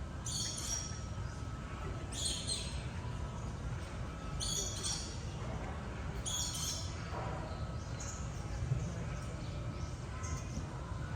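A bird calling four times, each call short and high and about two seconds apart, over a steady low rumble.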